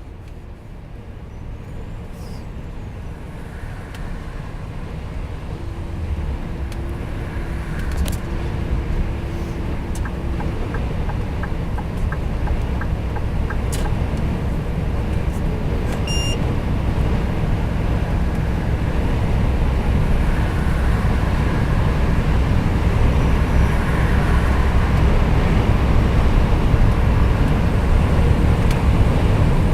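Scania R420 truck running on the road: low engine and road rumble growing steadily louder as it gathers speed. A short run of regular ticks, about two a second, comes partway through.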